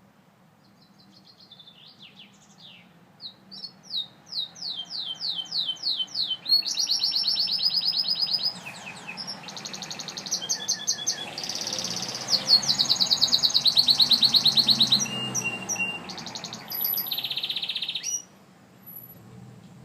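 Gloster canary singing one long song made of fast trills, rapid runs of repeated notes that change from phrase to phrase. The song builds up over the first few seconds, is loudest in the middle, and stops abruptly about a second before the end.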